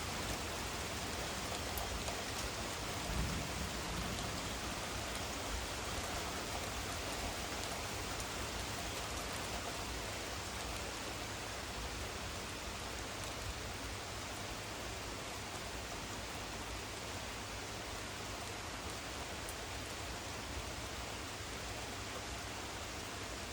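Heavy thunderstorm rain falling steadily as an even hiss, easing slightly over the stretch. A brief low rumble sounds about three seconds in.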